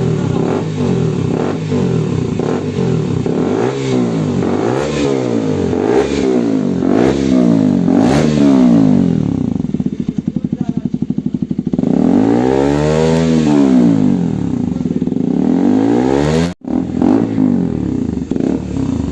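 KTM RC 200's single-cylinder engine through a loud aftermarket exhaust, revved in about five quick throttle blips, then dropping back to a lumpy idle before one longer rev and a return to idle.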